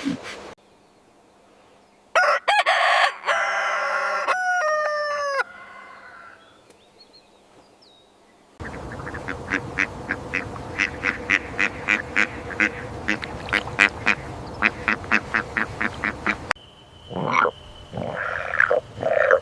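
A run of separate animal-call recordings with abrupt cuts between them. First comes a pitched, honking call that slides downward. Then a long, fast series of short repeated calls at about three a second over a noisy background. Near the end there are a few louder calls.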